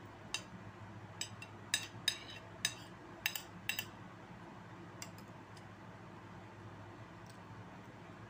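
Close-up eating sounds: wet mouth smacks and clicks while chewing, about a dozen sharp clicks over the first four seconds, then one more and a few faint ones.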